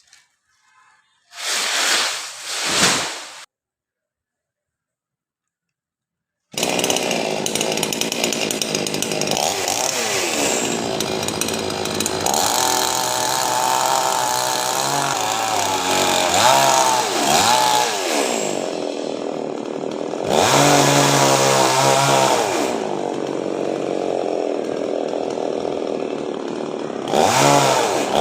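A short noisy burst, then a few seconds of dead silence. About six seconds in, a chainsaw comes in abruptly and runs loud through the rest, its pitch rising and falling repeatedly as it is revved while cutting a coconut tree.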